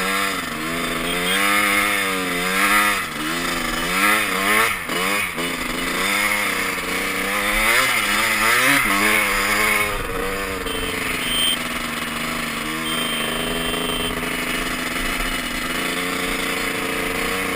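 Dirt bike engine revving up and down again and again, then settling to a steadier, lower note about ten seconds in.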